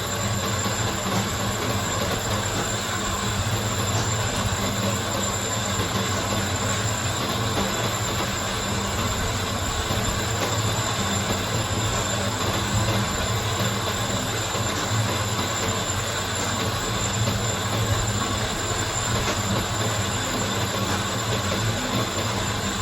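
Workshop machinery running steadily: a continuous mechanical hum and rumble with a thin high whine, no separate strokes or impacts.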